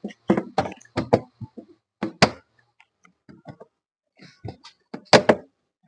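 Irregular sharp knocks and clicks, about a dozen, loudest about two seconds in and again near five seconds, as the cap over a car's rear shock absorber top mount is pressed into place by hand.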